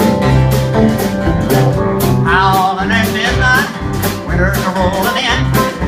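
Live country band playing a song's intro: guitar and bass chords over a steady drum beat, with a wavering high melody line coming in about two seconds in.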